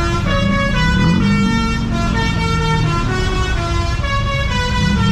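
An Indonesian party bus's musical horn (telolet) playing a tune of held notes that change pitch every half second or so, over a loud low rumble of engine and traffic.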